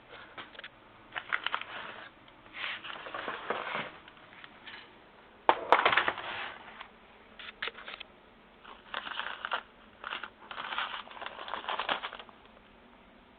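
Irregular bursts of rustling and crinkling, like material being handled, with a sharp knock about five and a half seconds in that is the loudest sound.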